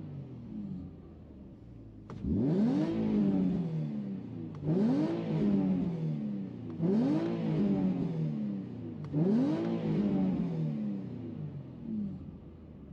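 Nissan Fairlady Z's V6 engine, breathing through an aftermarket muffler, revved four times at standstill. Each rev climbs quickly and falls back to idle, about two seconds apart, and it settles to idle near the end.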